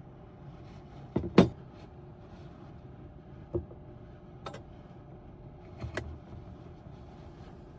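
A few short knocks and clicks over a low steady hum. The loudest is a quick double knock about a second in, and three lighter ones follow over the next five seconds.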